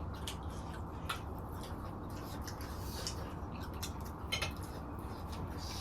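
Quiet eating at a table: a few faint clicks and light taps of cutlery and dishes, about a second in and again about four seconds in, over a steady low hum.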